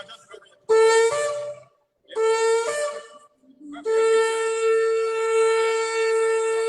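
A shofar blown in three blasts: two short ones, each about a second long and stepping up in pitch at its end, then a long steady blast from about four seconds in.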